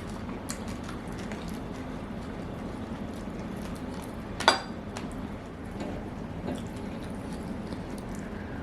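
Quiet eating at a meal: soft small clicks of food and utensils over a steady background hiss, with one sharp clink about four and a half seconds in.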